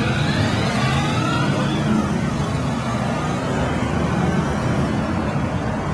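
Street traffic: motor vehicle engines running steadily.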